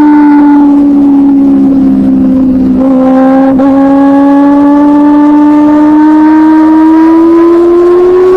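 Benelli 600i's inline-four engine through an aftermarket SC-Project exhaust, held at high revs as one steady, loud note. The pitch sags slightly over the first few seconds, then climbs slowly toward the end.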